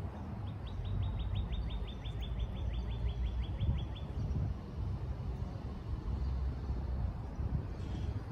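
A songbird singing one rapid trill of about twenty short notes, each sliding down in pitch, lasting about three and a half seconds, over a steady low outdoor rumble.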